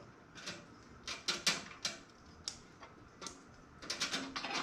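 Irregular light clicks and taps of plastic power-supply cable connectors being handled and fitted in a PC build, the sharpest about a second and a half in.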